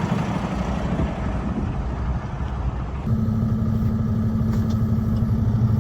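A semi truck's diesel engine idling steadily. About three seconds in, the sound shifts to a steadier, stronger low hum.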